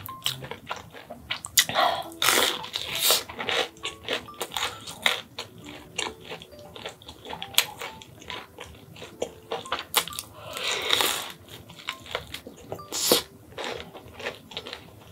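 Close-miked chewing and crunching of a fried breaded pork cutlet, with many small crisp clicks and louder crunching bites a couple of seconds in and again about ten seconds in. Faint background music runs underneath.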